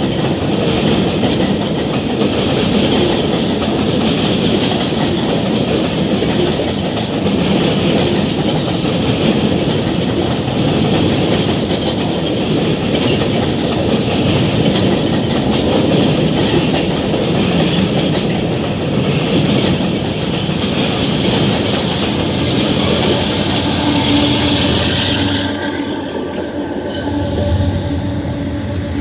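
Union Pacific freight train of covered grain hopper cars rolling past, a steady rumble and clatter of steel wheels on rail. A few seconds before the end the train noise falls away as the last car clears, leaving a quieter low hum.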